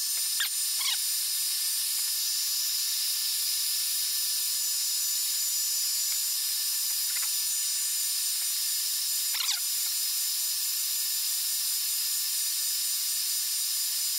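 Hot-air blower running steadily, switched on at the start: an even hissing rush of air with a thin whine, heating the iPad 2's glass to soften its adhesive. A few faint short squeaks come through it near the start and about nine seconds in.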